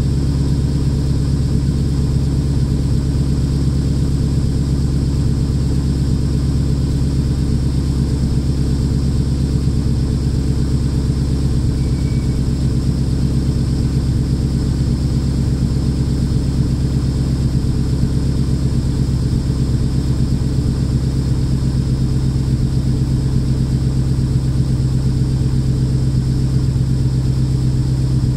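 Lexus IS F's 5.0-litre V8 idling steadily through a custom valved exhaust with the resonators removed.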